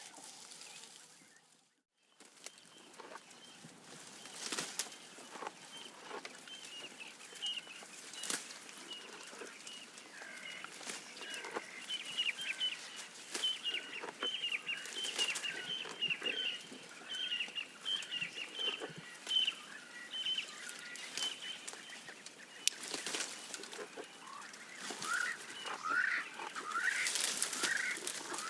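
Giraffe browsing, with many short snapping and rustling clicks of leaves being pulled and chewed, under birds calling throughout. A run of quick repeated high calls sits in the middle, and busier chirping builds near the end.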